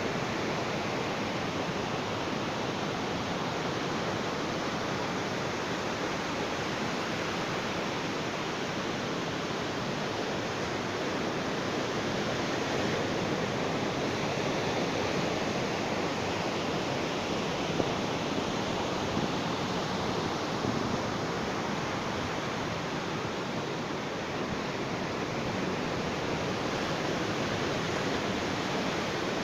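Ocean waves washing on a beach: a steady rushing with slow, slight rises and falls in level.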